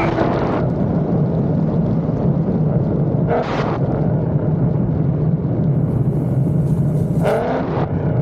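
Car engine running steadily with a deep, even rumble.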